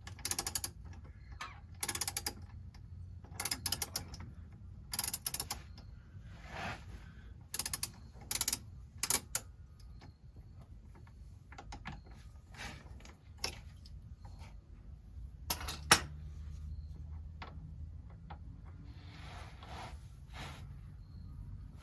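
A socket ratchet clicking in short runs as a 13 mm oil pan drain bolt is worked loose, about seven quick strokes spread over the first ten seconds. Later comes a single loud, sharp double knock.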